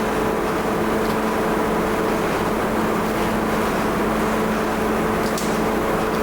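Factory machinery running with a steady hum, a constant even drone with no change in speed, and a faint tick about five seconds in.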